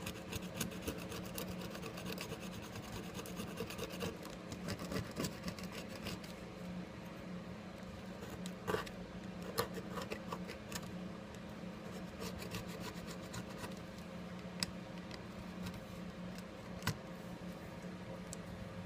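Small hand tool scraping and scratching on the phone's frame in many light strokes, with a few sharper clicks, as leftover adhesive and broken glass are cleared away. A steady low hum runs underneath.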